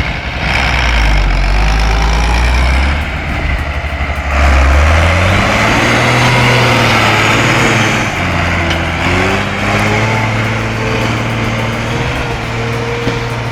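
Ursus farm tractor's diesel engine running hard while pulling a heavy load of logs, its pitch rising about 5 seconds in and again about 9 seconds in as it revs up.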